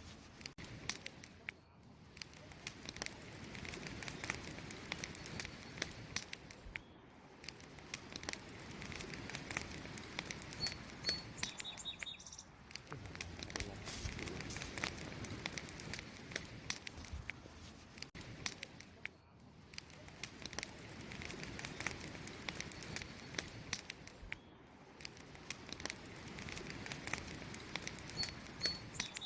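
Wood fire crackling and popping over a steady hiss, with a bird giving a few short high chirps twice.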